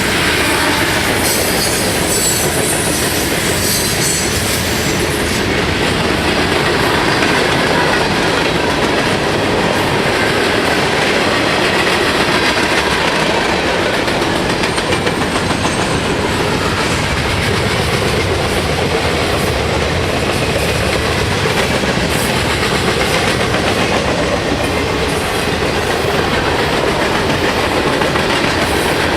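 Norfolk Southern freight train's cars rolling past, a steady loud rumble and clatter of steel wheels on the rails.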